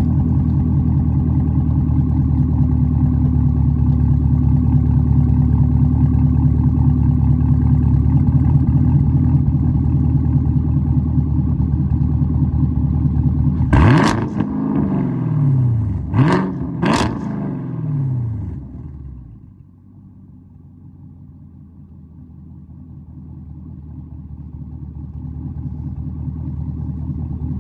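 2021 Chevrolet Camaro SS's 6.2-litre LT1 V8 through an AWE Track Edition axle-back exhaust, heard about a foot behind the tailpipes: a loud, steady warm idle, then about fourteen seconds in three quick blips of the throttle, each falling away in pitch. After the blips the sound drops off sharply.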